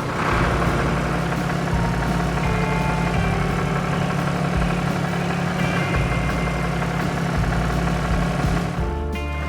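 Tractor engine idling steadily, cutting in suddenly.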